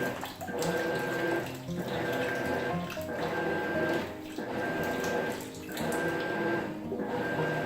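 Maytag top-load washing machine agitating: the motor hums and water sloshes in strokes that reverse with a brief dip about every second and a bit.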